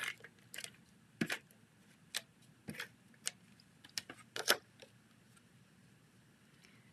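Light clicks and taps of cardstock pieces and crafting tools being handled on a work table, about a dozen in the first four and a half seconds, then only faint room tone.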